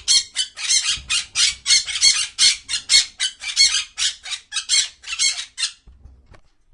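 A rapid series of high-pitched calls from an animal, about four a second, stopping a little before the end.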